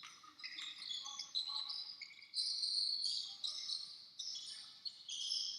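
Basketball sneakers squeaking on a hardwood court: many short, high squeaks that start and stop abruptly, the loudest about halfway through.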